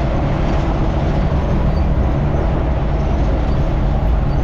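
A truck driving on the road: steady engine and road noise, a loud, even rumble.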